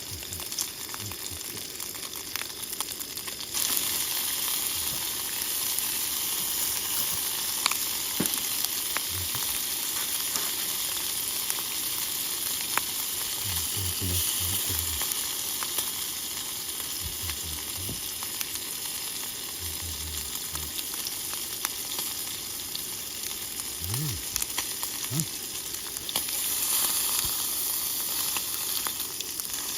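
Meat sizzling as it cooks over high heat, a steady frying hiss with scattered small pops, growing louder about three and a half seconds in and again near the end.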